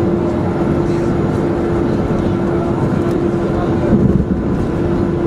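Steady cabin noise of a Boeing 737-400 on the ground after landing: a constant hum with one steady tone under it. There is a brief louder bump about four seconds in.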